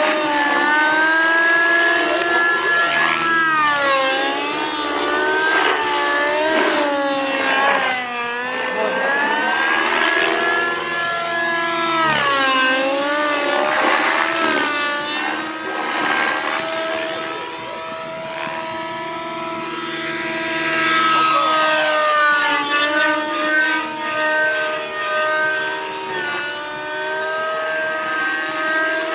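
Radio-controlled model helicopter in flight, its motor and rotor whine rising and falling in pitch over and over as it manoeuvres.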